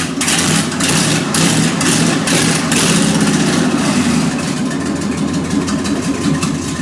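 1995 Chevy K3500 dually's 454 big-block V8 running loud and steady, with a deep low drone and repeated sharp rasping pulses over it.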